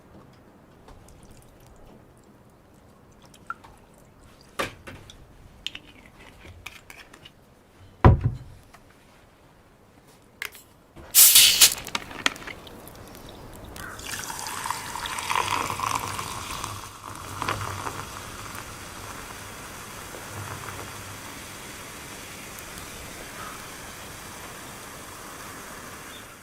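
Cooking-gear handling: scattered clicks and knocks, a sharp thud about eight seconds in and a loud clatter about eleven seconds in, then a steady hiss of liquid that carries on from about fourteen seconds.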